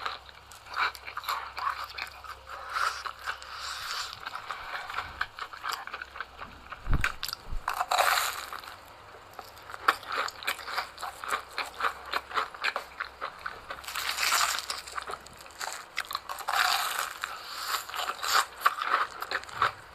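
Close-miked chewing of crunchy fried cheese sticks: repeated crisp crunches and bites, with louder bursts of crunching every few seconds.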